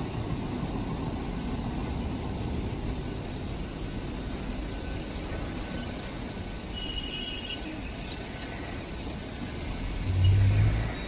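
Steady low rumble of a running train, with a brief louder low boom about ten seconds in.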